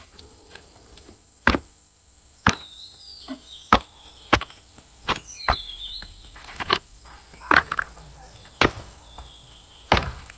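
Wooden concrete formwork boards being knocked loose: about ten sharp, irregular knocks of wood being struck, with birds chirping faintly between them.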